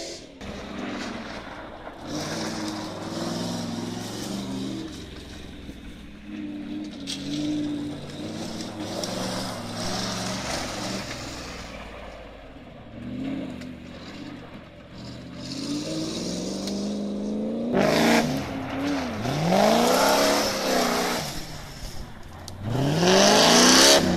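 A modified Land Rover off-roader's engine revving under hard driving. It holds fairly steady at first, then sweeps up and down sharply several times in the second half, loudest near the end.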